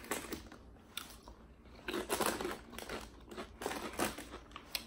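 Close-miked chewing of a mouthful of sub sandwich: irregular wet mouth clicks and soft crunching, loudest about two seconds in and again near four seconds.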